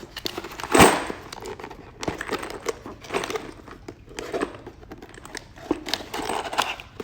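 Cardboard ammunition box being opened and handled: rustling with many small clicks and knocks, and a loud scrape or rip about a second in.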